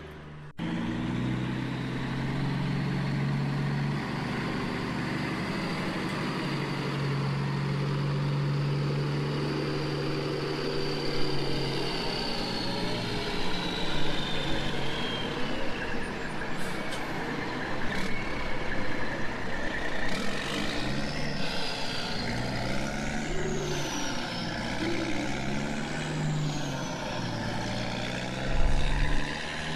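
Heavy truck engine running steadily, with a whine that falls in pitch and then repeatedly rises and falls as it works.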